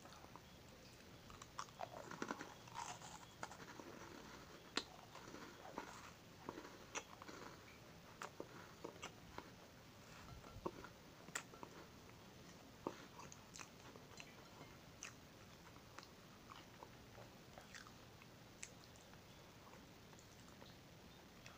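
Close-up chewing of a crunchy chocolate cream sandwich biscuit: many short, sharp crunches, busiest in the first half and sparser toward the end.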